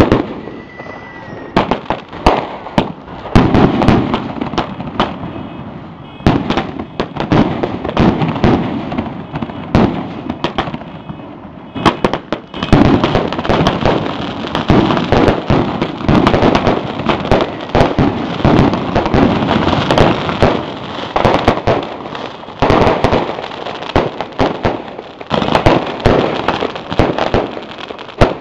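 Ground fireworks going off close by: rapid crackling pops and bangs, in separate clusters at first, then a dense, continuous crackle from about twelve seconds in.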